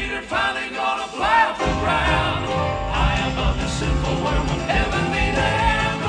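Southern gospel quartet singing with instrumental accompaniment; the bass drops out for about a second near the start.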